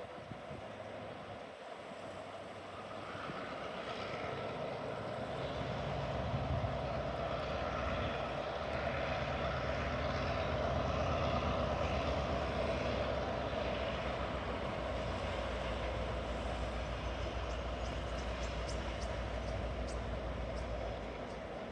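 TasRail diesel locomotives, led by 2053, running as a freight train moves slowly past. The low engine hum grows louder a few seconds in, then holds steady.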